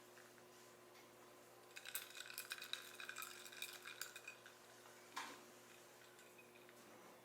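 Rapid, light clinking of a utensil against dishware for about two and a half seconds, then a single clink about five seconds in.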